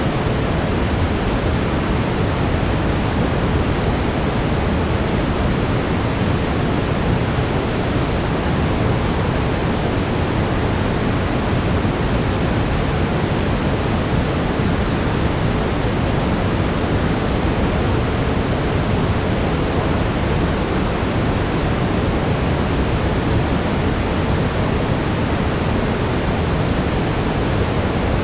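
Steady brown noise: an even, unbroken rushing hiss weighted toward the low end, with no change in level.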